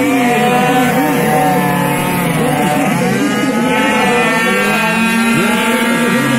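Several small two-stroke racing motorcycles with Derbi Variant engines running around a circuit. Their engine notes overlap and rise and fall in pitch as the riders accelerate and back off through the bends.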